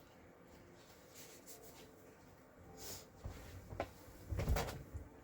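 Sheets of paper and cardstock being handled and shuffled on a craft table, with soft rustles and a few light knocks, busiest about three to four and a half seconds in.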